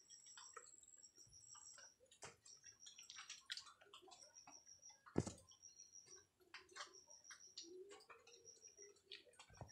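Faint clicking and chewing of a mouth biting into raw honeycomb, with one louder click about five seconds in. A high pulsed chirp repeats every second or so in the background.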